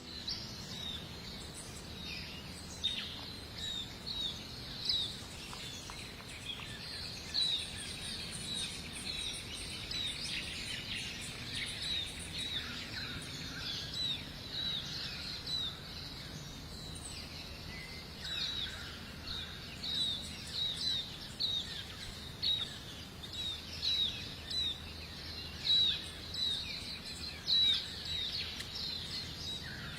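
Birds chirping: short high chirps repeating about once a second over a faint steady background hiss, growing somewhat louder in the second half.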